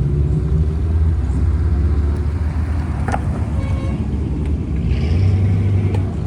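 Classic Japanese car's exhaust rumbling loudly at low revs, a deep steady engine note that swells briefly near the end.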